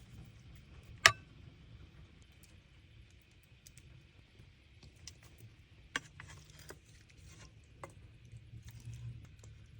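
Sharp metallic clinks of utensils against stainless steel cookware: one loud, briefly ringing clink about a second in, another near six seconds and a lighter one near eight, with small ticks between, over a faint steady hiss.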